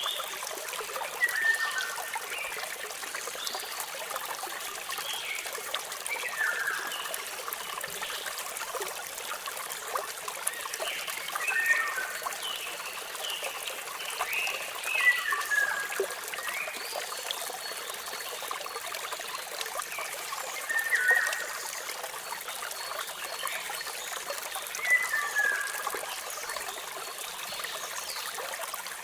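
Steady running water, with birds chirping over it in short, falling calls that come every few seconds.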